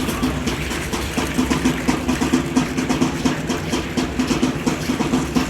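Aztec dance drumming: a fast, even, steady beat.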